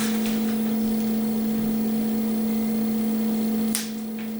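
A steady machine hum with a clear low tone. About three-quarters of the way through there is a click, and after it the hum is a little quieter.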